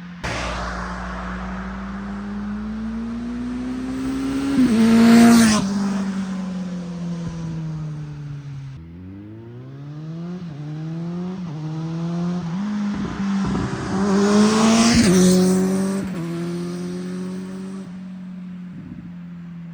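Kawasaki Z900 inline-four with an SC Project S1 GP slip-on exhaust making two passes. The first pass comes about five seconds in, its pitch falling as it goes away. On the second the engine climbs up through several gears, the pitch dropping at each shift, before passing loudly about fifteen seconds in.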